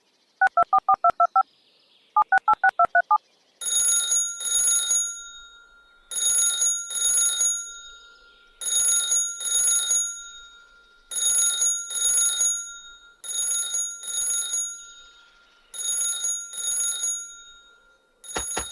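A rapid electronic two-tone warble sounds twice in quick succession. Then a telephone-style ring starts, coming in double rings (ring-ring, pause) about every two and a half seconds, six times.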